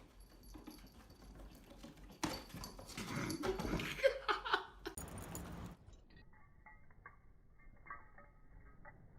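A dog's voice for about three seconds, starting about two seconds in, followed by faint clicks and ticks.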